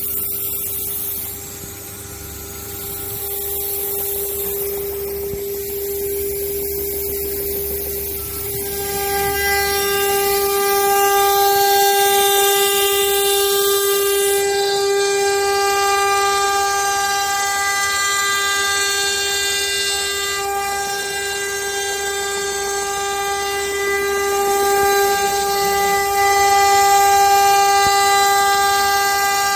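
Spindle of a STYLECNC STM6090C CNC router running at high speed: a loud, steady whine pitched near 400 Hz with a row of overtones. The overtones grow stronger about nine seconds in.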